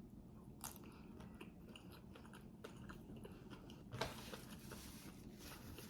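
Quiet chewing of a birria taco, with scattered small wet mouth clicks and a brief hiss about four seconds in.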